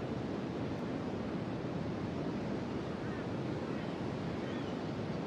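Ocean surf breaking on a beach, a steady wash of noise with no pause.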